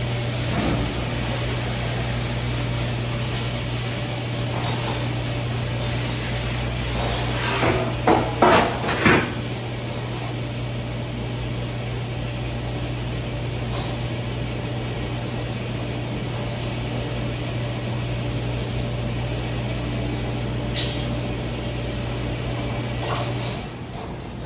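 Steady low hum and rumble of a moving vehicle, with a few brief, loud squeals about eight to nine seconds in. The hum cuts off shortly before the end.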